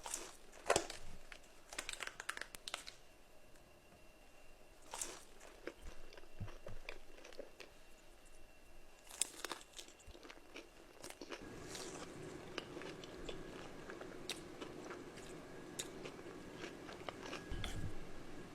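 Crunchy food being bitten and chewed close to the microphone, with irregular sharp crunches. A faint steady hum joins in during the later part.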